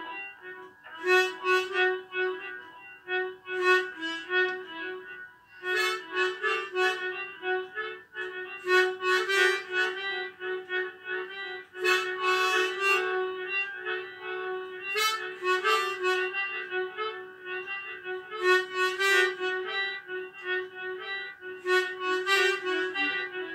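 Harmonica playing a melody in phrases of held notes and chords, with a short break about five seconds in.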